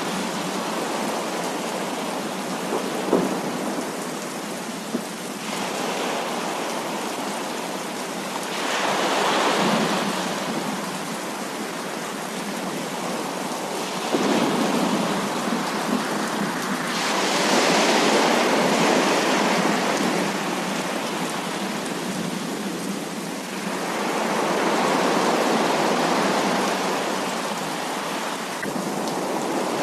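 Heavy rain falling steadily during a thunderstorm. Rolls of thunder make the sound swell and fade several times, and a few sharp drip-like clicks stand out.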